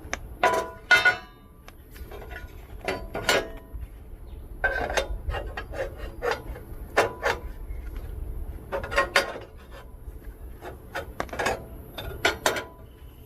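Steel angle-iron spacer being test-fitted into a suspension control arm: repeated sharp metal-on-metal clinks and scrapes, some ringing briefly.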